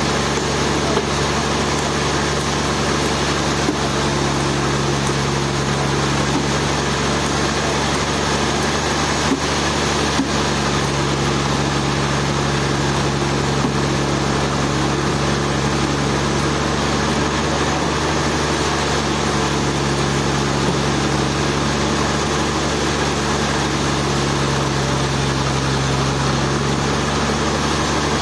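Sawmill machinery running steadily: a constant motor drone with a low hum, holding the same pitch and level throughout.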